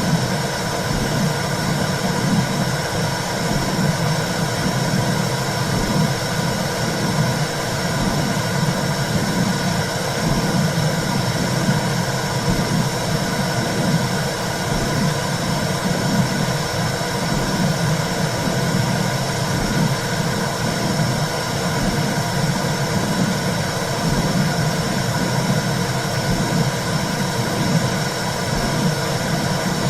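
Womb-sound recording made for soothing a baby: a steady, loud rushing noise with a low, rhythmic pulsing in it.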